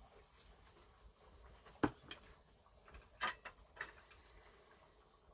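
A few scattered faint knocks and clicks: one knock about two seconds in, then a quick cluster of lighter clicks a little after three seconds.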